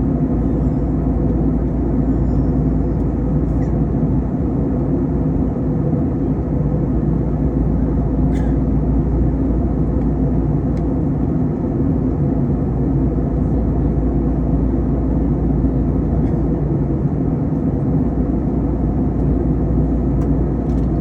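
Steady cabin drone of an Airbus A321 airliner in flight: engine and airflow noise as a low, even rumble, with a faint tick about eight seconds in.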